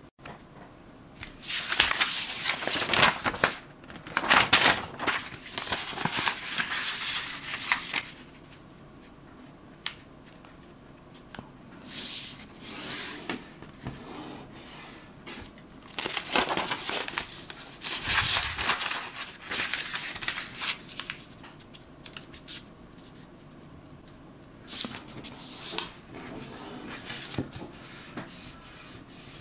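Origami paper being handled, folded and creased, crinkling and rustling in irregular bursts with short quiet gaps between them.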